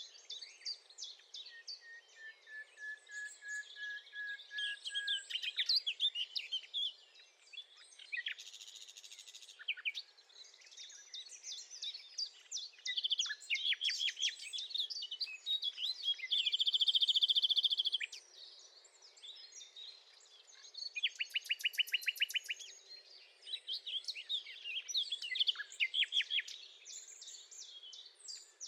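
Common nightingale singing a long run of varied phrases: a slow series of whistled notes falling in pitch near the start, then quick chirps and fast rattling trills.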